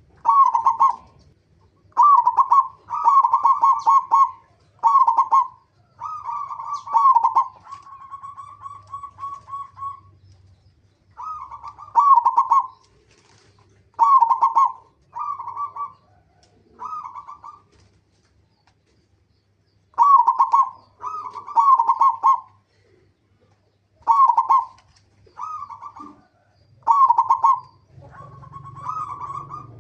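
Zebra dove (perkutut), local Indonesian type, singing: repeated phrases of about a second each, made of quick rolling coos. About eight seconds in there is a longer even string of notes, and a few seconds past the middle there is a pause of two or three seconds.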